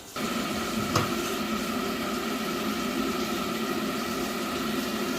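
Biasi combi boiler starting up on a hot-water demand, now that its new flow turbine senses the tap flow. A steady hum with held tones comes on suddenly, with a sharp click about a second in, then runs evenly.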